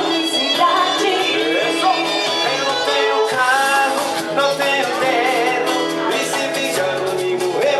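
Live Latin music from a duo, with guitar and a melody line over the accompaniment.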